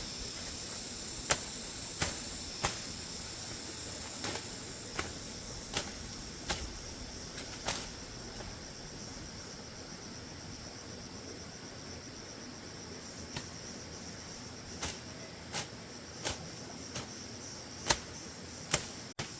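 Steady high chirring of crickets or other insects, with sharp snaps at irregular intervals, several in the first half and more again near the end; the snaps are the loudest sounds.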